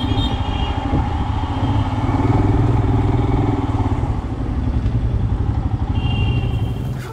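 Royal Enfield Himalayan's single-cylinder engine running at low speed, a steady low thump that swells a little about two seconds in and then eases off.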